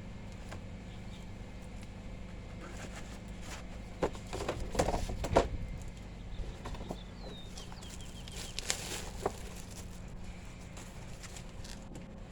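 Bird calls, a few short chirps, over a steady low hum, with a cluster of knocks and rustles about four to five seconds in and another near the end.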